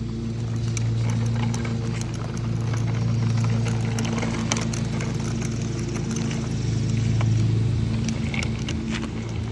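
Steady low mechanical hum from a running motor, with a few light scattered clicks over it.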